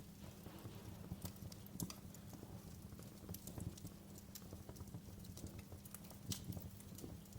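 Wood fire crackling in a fireplace: irregular sharp pops and snaps over a low steady rumble of the flames, with a few louder pops about two seconds in and near six seconds.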